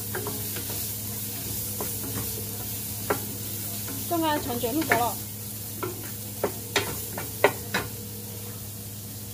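Sliced shallots and aromatics sizzling in oil in a nonstick frying pan, stirred with a wooden spatula that knocks and scrapes against the pan a number of times, the sharpest knocks in the second half, over a steady low hum.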